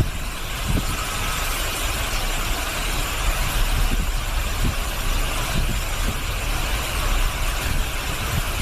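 Typhoon wind blowing hard, a continuous rushing noise with irregular low gusts buffeting the microphone.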